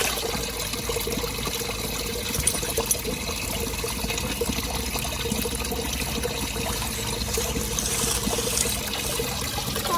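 Creek water trickling steadily.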